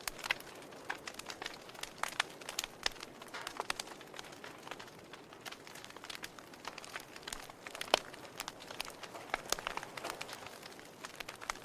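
Wood fire crackling in a fireplace: irregular sharp pops and snaps over a soft steady hiss, with the loudest pop about eight seconds in.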